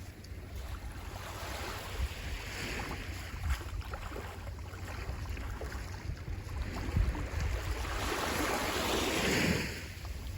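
Sea waves washing onto the shore. The surf swells gradually and peaks in one louder wave crash near the end before falling away, over a low rumble of wind on the microphone.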